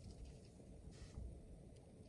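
Wood campfire burning quietly: a low rumble with a few faint crackles and a brief soft hiss about a second in.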